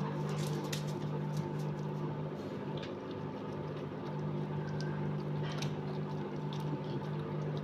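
A steady electrical or motor hum, like a running household appliance, with a few faint scattered clicks over it.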